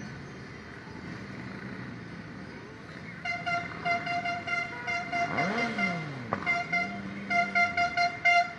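Vehicle horn honked in rapid strings of short beeps, beginning about three seconds in over traffic noise, in two runs with a short gap between them. Between the runs a lower tone rises and falls once.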